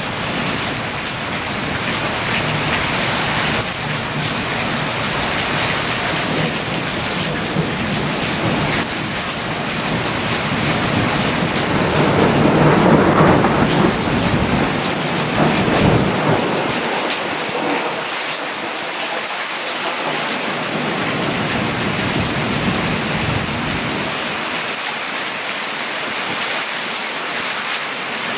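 Steady rain falling during a thunderstorm, with a rumble of thunder swelling up and dying away about halfway through.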